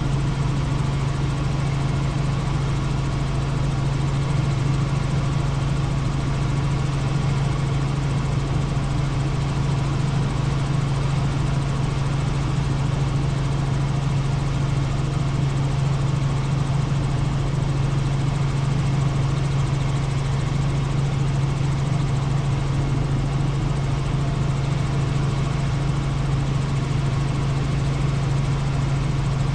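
Helicopter in flight: a steady, unchanging drone of engine and rotors with a strong low hum.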